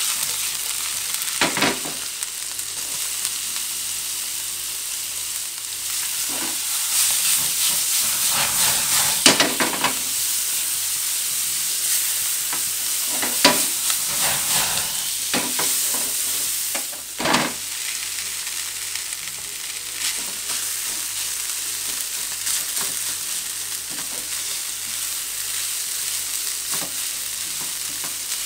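Sliced meat and kimchi sizzling steadily in a nonstick frying pan, with a spatula stirring through the food. A few sharper scrapes of the spatula against the pan stand out.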